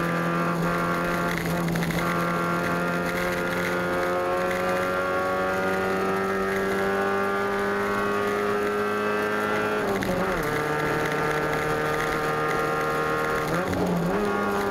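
Competition car engine heard from inside the cockpit, pulling hard under load with its pitch climbing steadily. About ten seconds in the pitch falls sharply, then climbs again, with another brief drop near the end.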